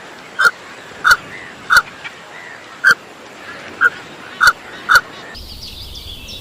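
An animal giving about seven short, sharp calls at irregular intervals, which stop shortly before the end.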